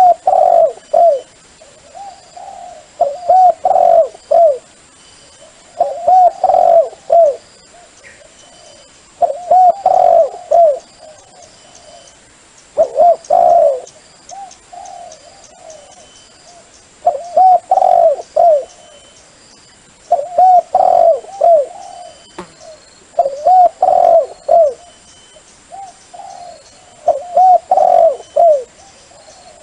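A dove cooing loudly and close: repeated phrases of several quick coos, one phrase about every three to four seconds, a dove call of the kind used to lure wild doves.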